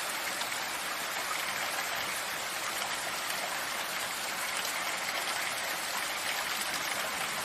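Steady rain falling, a dense even hiss of drops with no change in strength.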